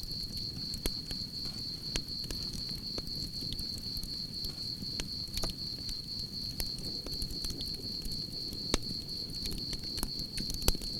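Wood campfire crackling and popping over a low rumble of flame, with crickets trilling steadily at a high pitch. A couple of sharper pops stand out near the end.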